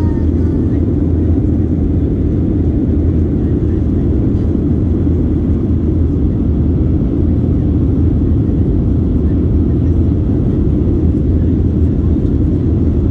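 Steady roar of an airliner's engines and rushing air heard inside the passenger cabin in flight, low and unbroken.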